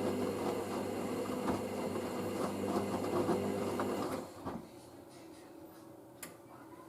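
Hoover SIX AAA160 washing machine drum turning during the rinse: a steady motor hum with water and wet laundry swishing in the drum. About four seconds in the motor stops and the drum comes to rest, with one short click near the end.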